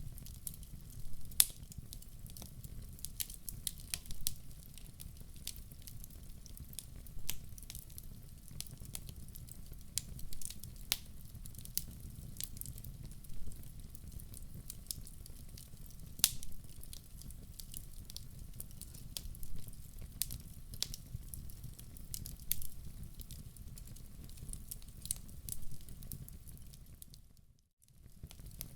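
Wood fire in a fireplace crackling, with irregular sharp pops and snaps over a steady low rumble of the flames. The sound dips out briefly near the end, then returns.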